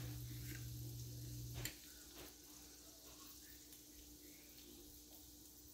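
Faint sizzling of skewered quail eggs cooking in oil on a hot tawa. A low steady hum runs underneath and cuts off suddenly with a click a little under two seconds in.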